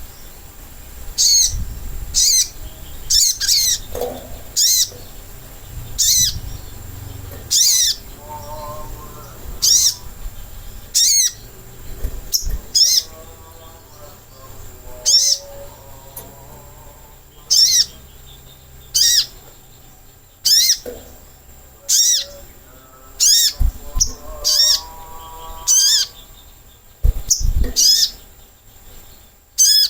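Recorded call of a sogok ontong sunbird used as a lure: short, sharp, high calls, each falling in pitch, repeated at irregular intervals of about one to two seconds. A fainter, lower warbling song runs underneath in the middle and again near the end.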